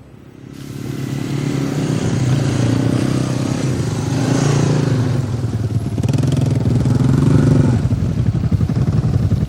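A small engine running, coming in about half a second in, its pitch wavering up and down with the throttle, then cutting off suddenly near the end.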